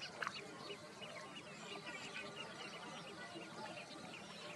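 Many birds calling at once: a dense chatter of short, high chirps overlapping without pause, with one sharp click just after the start.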